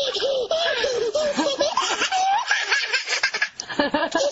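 People laughing, voices breaking into fits of laughter.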